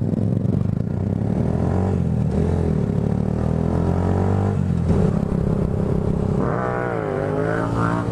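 Vehicle engine pulling away and accelerating: its pitch climbs, drops at a gear change, and climbs again, with a second dip and rise near the end.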